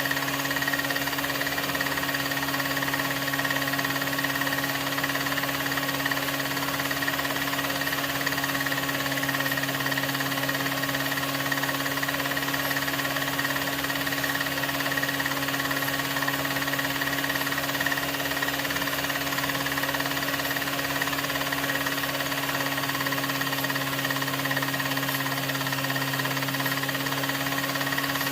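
16mm film projector running: a steady motor hum with a fast, even clatter from the film mechanism.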